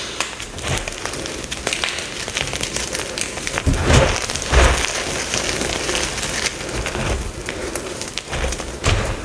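Deep-dyed gym chalk blocks being crushed, a dense run of crisp crunching and crackling, with heavier crunches about four seconds in.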